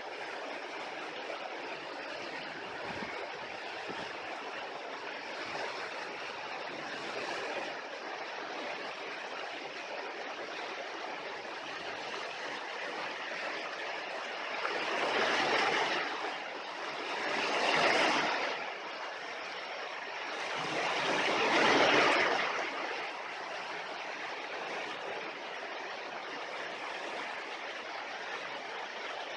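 Steady rush of running water, with three louder swells of a couple of seconds each in the second half.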